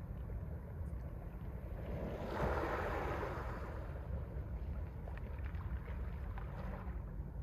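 Mediterranean sea waves washing onto the shore over a steady low rumble, with one wave breaking louder about two and a half seconds in.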